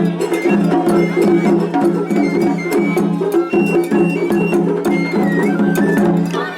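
Japanese festival hayashi played live on the floats: a high bamboo flute melody over taiko drums and sharp, regular metallic strikes of a small hand gong. Two floats' hayashi bands are playing against each other at once in a seriai, giving a dense, continuous din.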